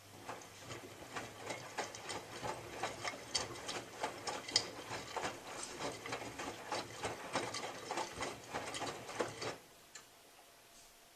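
Miele W3744 washing machine drum turning through its wash tumble, the drive motor humming under a dense run of irregular clicks and taps from the load. The tumble stops abruptly near the end as the drum pauses.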